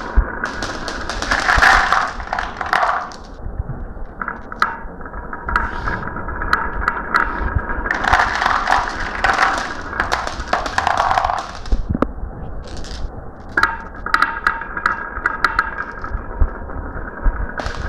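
Marbles running down a marble run: a steady low rolling rumble with sharp clicks, and bursts of rapid clattering as marbles knock together and drop through the track pieces.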